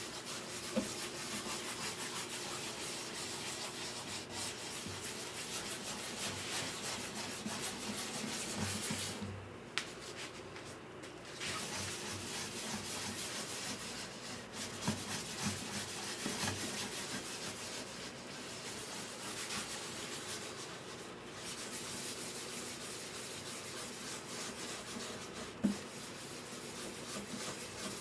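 Wood on a guitar under repair being sanded: continuous rubbing strokes, broken by a few short pauses and an occasional light tick.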